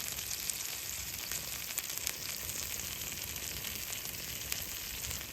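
Food frying in a pan, a steady sizzle with scattered small pops and spits.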